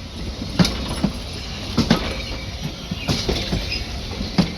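Arcade & Attica train rolling slowly into the station: a low rumble with irregular sharp knocks as the wheels pass over rail joints, about one or two a second.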